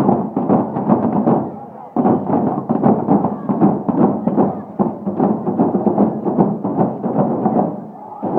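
Bonfire night street noise: the chatter of a crowd, with many sharp bangs and thuds coming several times a second.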